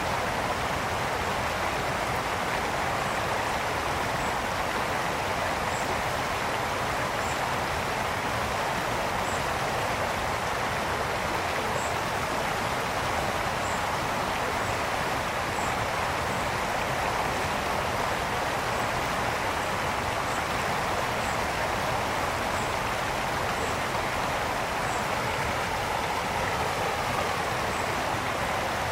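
A brook flowing, a steady, unbroken rush of water.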